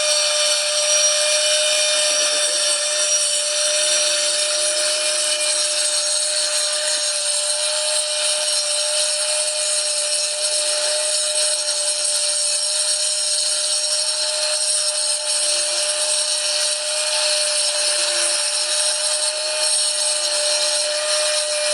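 Small angle grinder with a diamond-dust disc running steadily while grinding out the grout from floor tile joints: a constant whine over a grinding hiss.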